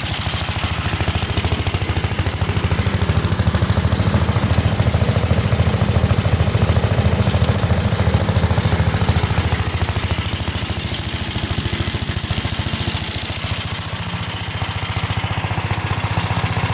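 1968 Gravely C8 tractor engine running steadily, a little louder through the middle and easing off briefly near the end.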